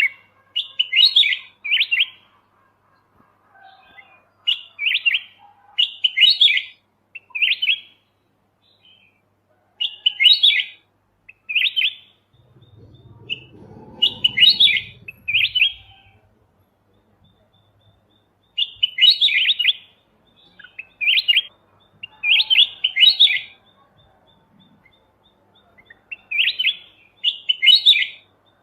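Kutilang emas (golden bulbul) singing: short, bright, chirpy phrases given in clusters of two or three, repeating every few seconds. A faint low rumble sounds under the song near the middle.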